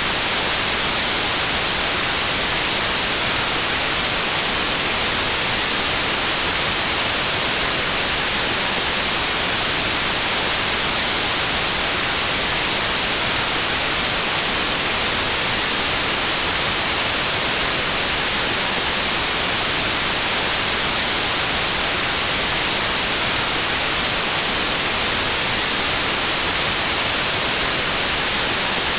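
Steady synthetic white noise: an even, unchanging hiss, strongest in the high treble.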